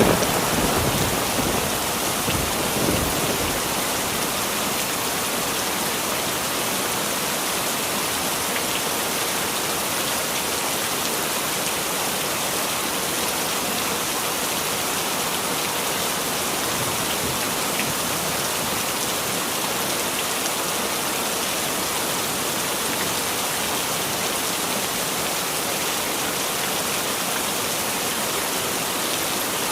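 Steady heavy rain falling as an even hiss. The last of a thunder rumble fades out over the first few seconds.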